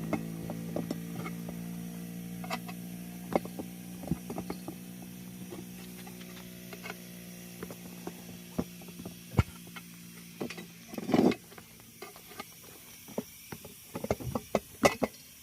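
Scattered clicks and knocks of hand work with tools and parts, a denser cluster about eleven seconds in and again near the end, over a steady low hum that fades away through the first half.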